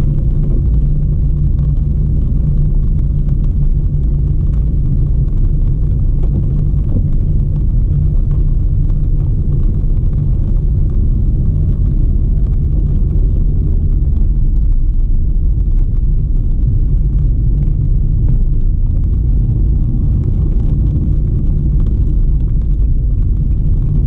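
Steady low rumble of a car on the move: road and engine noise, unbroken throughout.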